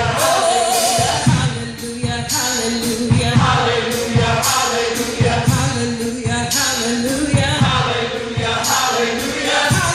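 Gospel choir singing with a band, with a steady beat and a tambourine.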